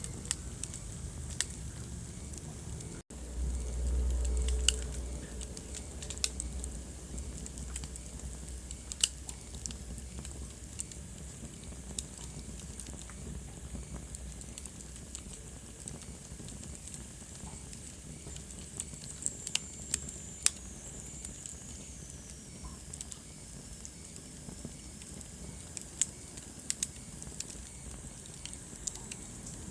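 Wood fire burning in a fireplace, crackling with irregular sharp pops over a steady low hiss. A brief low rumble comes a few seconds in, and later a faint high whistle slowly falls in pitch.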